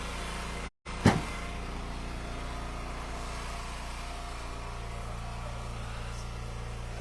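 Engine of an Eastonmade Ultra hydraulic wood splitter running steadily. About a second in, one sharp, loud knock from a piece of wood, right after a brief cut-out in the audio.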